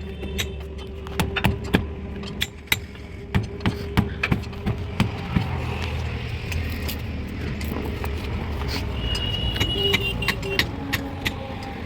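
Irregular sharp knocks and clinks of tyre-fitting work on a tractor wheel, over a steady low hum.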